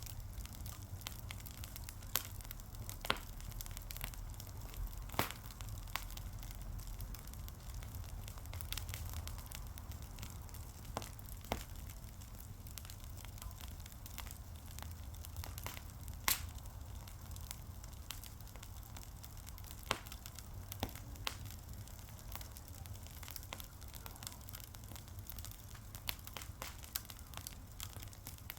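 Wood fire crackling: irregular sharp pops and snaps, a few louder ones, over a low steady rumble of the burning.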